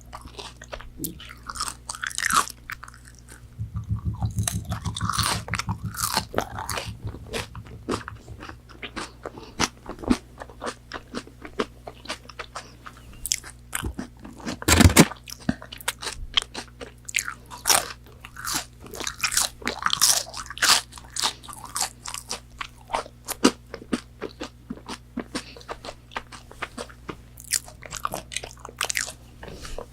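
Close-miked biting and chewing of crispy McDonald's chicken nuggets, with wet crunches throughout. A dense run of crunching comes a few seconds in, and one loud bite about halfway.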